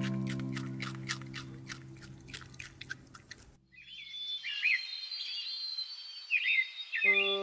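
Background music with a ticking beat and held notes fades out over the first three seconds, then birds chirp and trill in short repeated calls, with music coming back in near the end.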